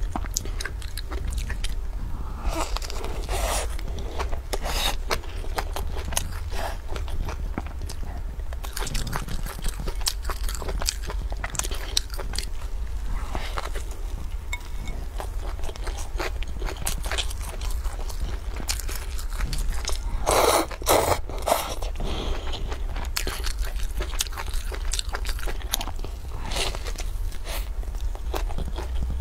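Bites and chewing of a crisp, flaky flatbread, with crunching and crackling of the crust as it is bitten and chewed; a louder run of crunching comes about two-thirds of the way in. A steady low hum runs underneath.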